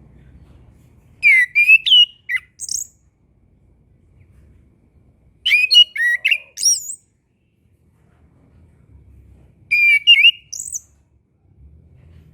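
Chestnut-capped thrush singing three short, warbled song phrases a few seconds apart, with quick notes that slide up and down, over a faint low rumble.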